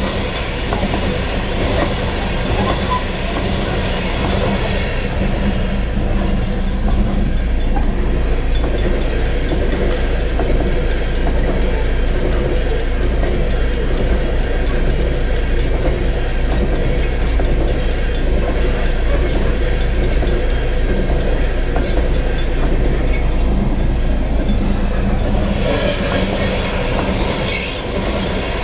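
Coal hopper cars of a long freight train rolling past, a steady rumble with the clatter of wheels over the rail joints.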